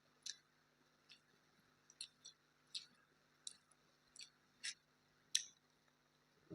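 Faint, sharp mouth clicks of someone chewing food, about nine smacks at an uneven pace of roughly one every two-thirds of a second.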